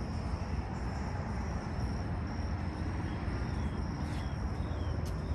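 Steady outdoor background rumble, strongest in the low range, with a faint steady high-pitched tone throughout.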